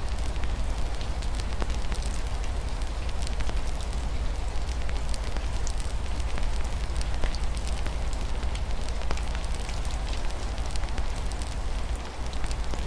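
Wood fire crackling, with frequent small irregular pops, over a steady hiss of rain falling on a window and a constant low rumble.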